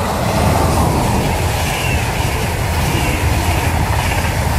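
Electric-hauled passenger train, a locomotive pulling a long rake of coaches, passing close at speed. Loud, steady rumble and rush of wheels on rail, swelling as the train arrives and then holding as the coaches stream by.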